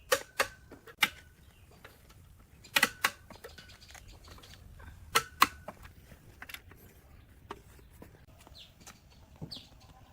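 Sharp metallic taps and knocks in small groups, a few with a brief ring, from tools striking metal parts. A few short bird chirps near the end.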